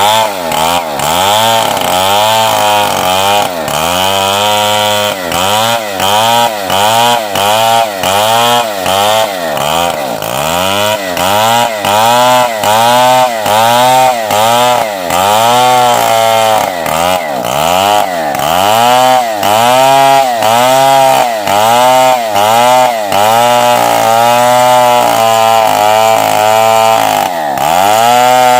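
Two-stroke chainsaw, a Stihl 070, ripping lengthwise along a wooden beam at high revs. Its pitch dips and recovers over and over, about once or twice a second, as the chain bites into the cut, with one deeper dip near the end.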